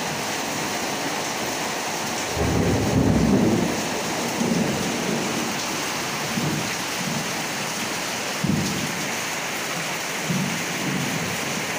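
Heavy rain pouring steadily onto flooded concrete and standing water. A little over two seconds in, a low rumble of thunder lasts about a second and a half, and a few shorter, fainter low swells follow.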